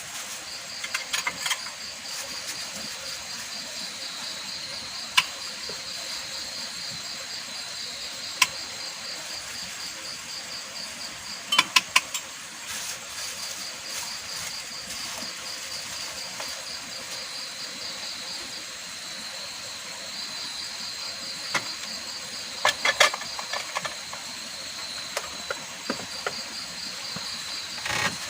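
Insects chirring in a steady, high-pitched pulsing trill that fades out and comes back at times. A few sharp clicks cut in, the loudest in small clusters near the middle and late on.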